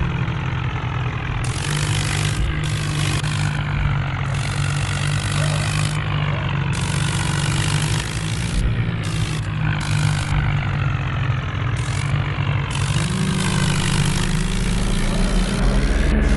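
Steady engine drone of a remote-control tractor towing a toy car, its pitch lifting slightly about thirteen seconds in.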